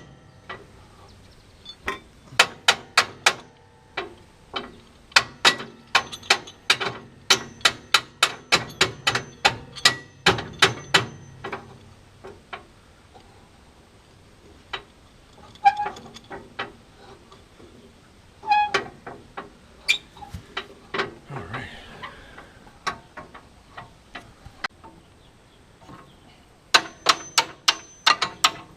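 Hammer striking steel on the tractor's loader mount, in quick runs of blows about three to four a second with a metallic ring, broken by pauses and a few lighter taps in the middle.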